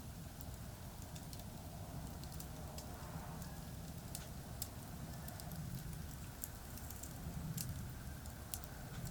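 Campfire crackling with scattered sharp pops, over a steady low rumble of distant expressway traffic.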